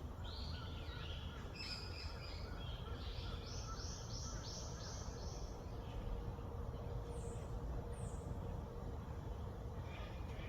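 A songbird sings a varied warbling phrase that ends in a run of about five repeated notes, followed a couple of seconds later by two short, high, falling chirps. A steady low background rumble runs beneath.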